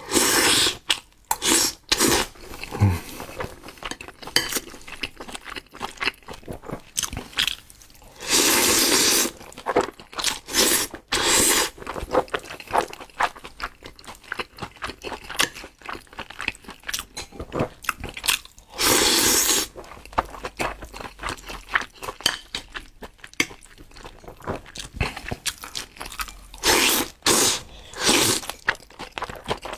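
Close-miked chewing of a mouthful of duck meat and rice: a steady run of wet smacks and small crunches, with a few louder bursts about a second long.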